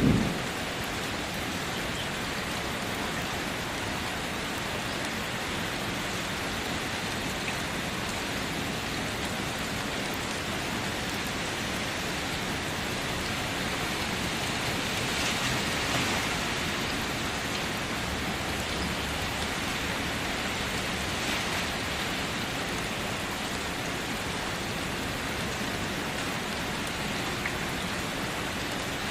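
Steady rainfall, an even hiss of drops on surfaces, with the tail of a thunder rumble dying away at the very start. The rain swells slightly about halfway through.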